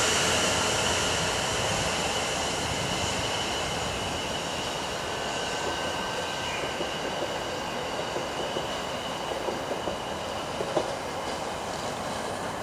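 Electric multiple unit train running away over the rails, its rumble and hiss fading steadily. A few wheel clicks over rail joints come near the end.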